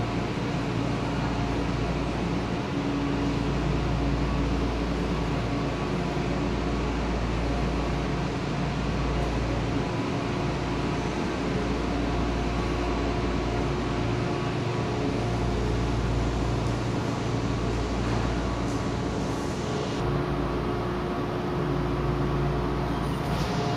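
Stationary electric trains at the platform humming steadily: air-conditioning and auxiliary equipment running, a few constant tones over a low rumble.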